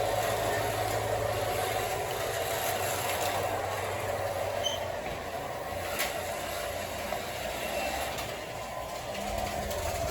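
O gauge LionChief Plus 2.0 Santa Fe RS diesel model locomotive running steadily along the track, its wheel rumble mixed with its onboard diesel-engine sound. A single sharp click about six seconds in.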